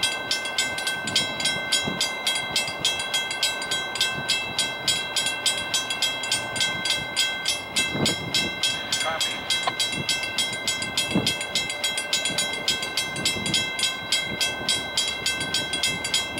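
Distant approaching Amtrak train, not yet close: a set of steady high ringing tones over a fast, regular pulsing beat, with a few faint chirps.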